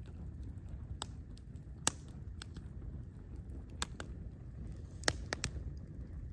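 Wood campfire crackling: a handful of sharp, scattered pops over a low, steady rumble.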